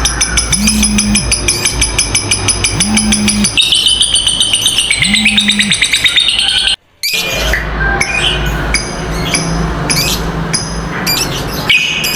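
Lovebird 'ngekek': a long, fast chattering trill of high, evenly repeated notes that breaks off about two-thirds of the way through. After a short gap come shorter, scattered chirps and squeaks from lovebirds.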